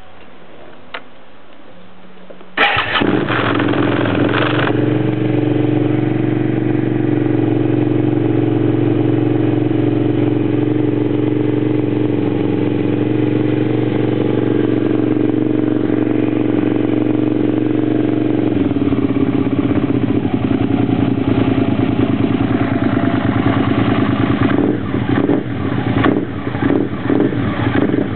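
Suzuki SV650S 90-degree V-twin with an aftermarket Viper exhaust, cranked by the starter and catching about two and a half seconds in with a short burst of revs, then idling steadily. The note changes a little past the halfway point and turns uneven near the end with a few short revs.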